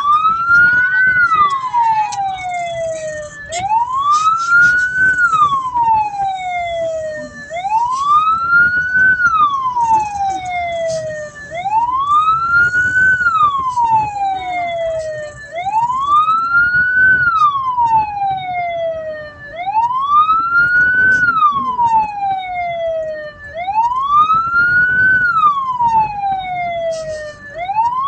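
Hearse siren wailing in a repeating cycle, a quick rise then a slower fall about every four seconds, over the low rumble of the moving vehicle.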